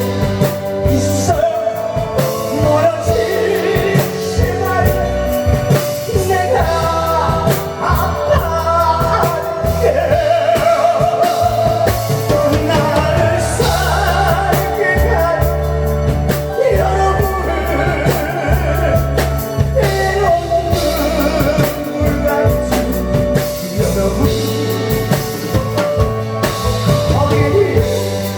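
A singer performing a song over loud backing music with bass and drums.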